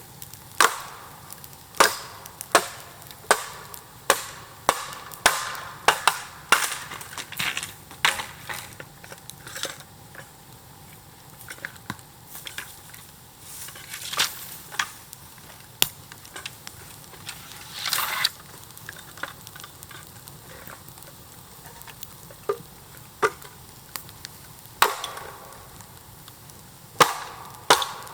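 Bamboo being chopped by hand, a blade striking in a steady rhythm of about one sharp crack every 0.7 seconds. The strikes thin out to a few scattered ones in the middle and pick up their regular pace again near the end.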